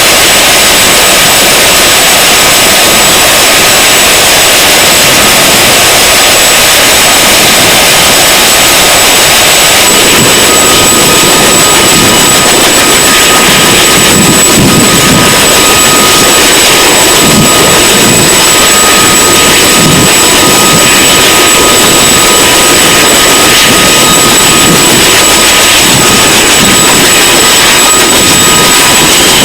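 CH-47 Chinook helicopter's turbine engines and rotors running, a loud steady rush with a high turbine whine through it.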